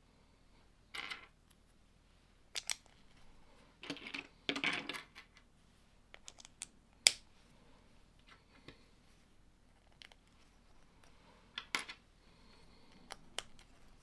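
Plastic Lego pieces being handled and pressed together: a scattering of short clicks and brief rustles, with a longer rustle around four to five seconds in and one sharp click about seven seconds in.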